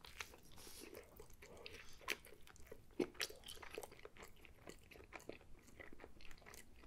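A person chewing a mouthful of breakfast burger on an everything bagel, close to the microphone. It is faint, with small crunches and mouth clicks scattered irregularly throughout.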